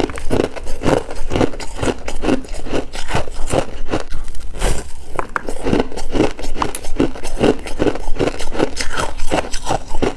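Freezer frost being chewed, a steady run of crunches about two to three a second.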